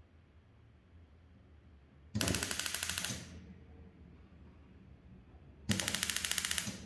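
Gas stove's electric spark igniter clicking rapidly in two bursts of about a second each, the first about two seconds in and the second near the end, as a burner is being lit.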